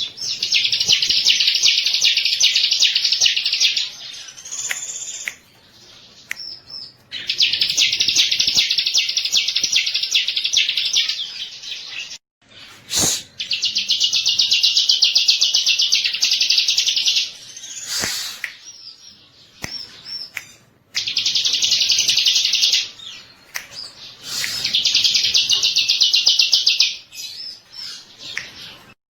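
Bar-winged prinia (ciblek) singing: long, high-pitched bursts of very rapid repeated notes, each lasting a few seconds, five times with short pauses between.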